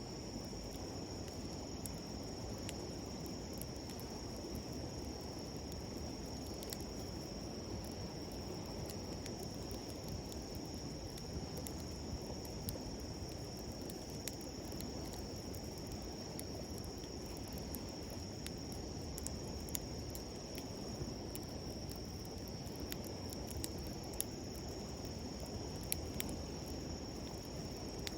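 Insects chirring in a steady, high, unbroken band over the even rush of a river stream, with scattered sharp crackles and pops from a wood campfire that come more often in the second half.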